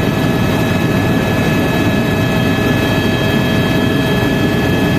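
Tour helicopter in flight: a steady loud drone of rotor and engine, a low rumble with a constant high whine running through it.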